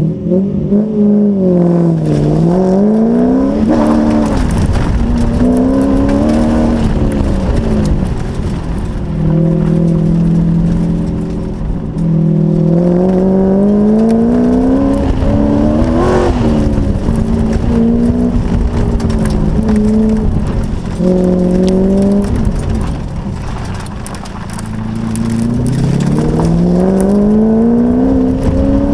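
Sports car engine under hard driving through an autocross course: the revs climb as the car accelerates and drop back as the driver lifts and brakes for the cones, over and over.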